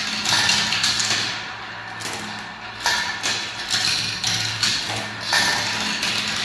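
Marbles rolling and clattering down a spiral marble-run track: a dense, continuous rattle of small clicks that swells and fades in waves about once a second, over a steady low hum.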